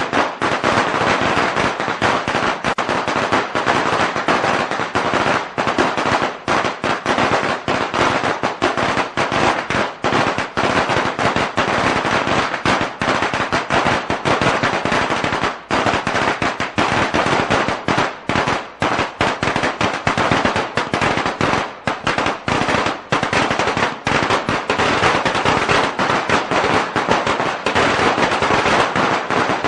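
A string of firecrackers going off in a dense, rapid, unbroken crackle of bangs.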